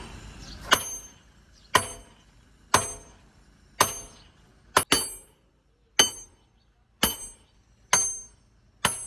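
Hammer blows on steel, about one a second with a quick double strike near the middle, each blow ringing metallically.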